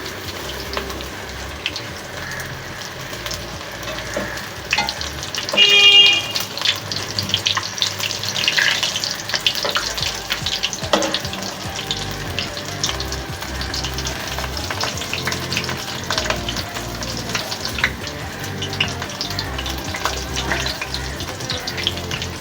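Chicken lollipops deep-frying in hot oil, a steady sizzle with constant small crackles and pops. About six seconds in there is a louder brief clatter with a short ringing note.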